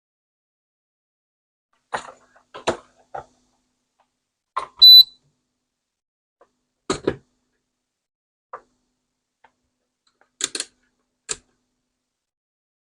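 Scattered clicks and taps from handling an air conditioner control board and multimeter test leads during a voltage check, with one short, loud, high electronic beep about five seconds in.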